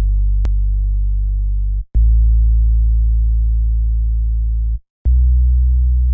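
A loud, deep electronic bass tone held steady in three long stretches, cutting out briefly about two seconds in and again near five seconds and slowly fading within each stretch. A single click sounds about half a second in.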